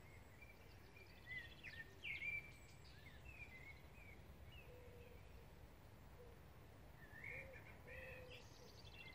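Faint birdsong from garden birds: short chirps and warbled phrases, a burst about a second in and another near the end, with soft lower notes repeating in between, over a low steady background rumble.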